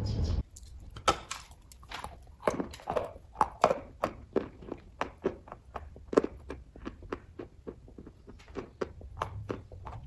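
Close-up mouth sounds of a person chewing kaju katli, a soft cashew fudge: an irregular run of wet smacks and clicks, several a second, thinning out in the second half.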